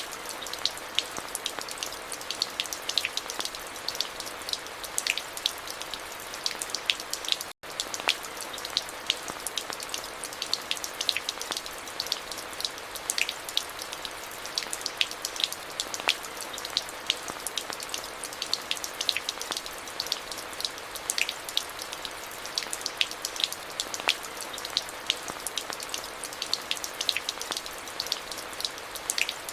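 Steady rain falling, with a hiss of rainfall and many distinct close drops ticking on a surface. The sound cuts out for a split second about a quarter of the way in.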